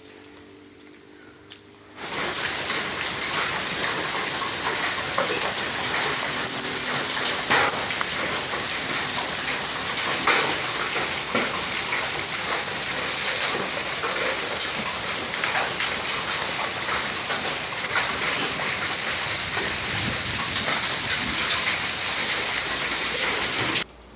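Heavy rain mixed with hail: a dense, loud downpour hiss peppered with sharp hailstone hits. It starts abruptly about two seconds in and cuts off just before the end.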